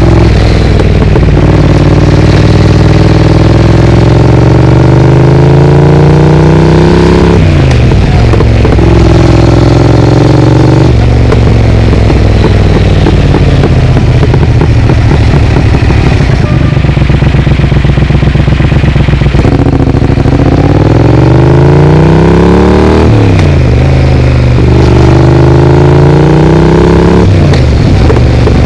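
Triumph Speed Twin parallel-twin engine through an aftermarket Vance & Hines exhaust, ridden through traffic: the pitch climbs under throttle and drops back at each gear change, several times, with a stretch of steadier running in the middle.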